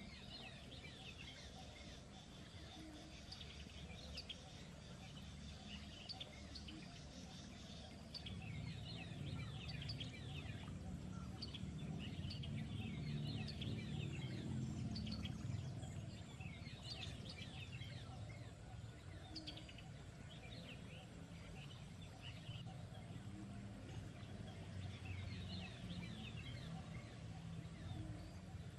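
Small birds chirping in quick, repeated short notes. A low rumble runs underneath and swells in the middle.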